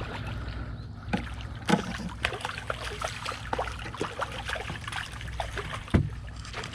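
Water sloshing around a small anchored fishing boat, with many small clicks and knocks and one sharper knock near the end.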